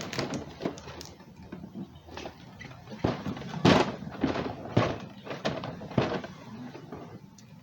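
Small cases of a fireworks shell kit being handled and set down: a string of irregular knocks and thuds, the loudest about halfway through.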